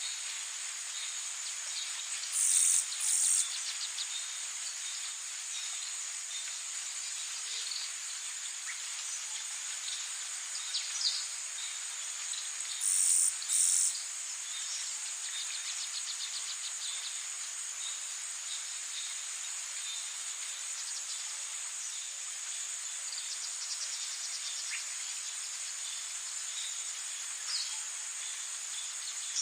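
Rainforest ambience: a steady, high insect chorus of crickets, broken twice by a louder, very high double call, about two seconds in and again about thirteen seconds in. Occasional short bird chirps sound over it.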